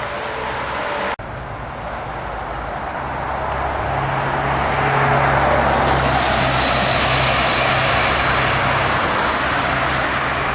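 Jet airliner on landing approach: a broad rushing engine noise that swells over a few seconds, then holds loud and steady.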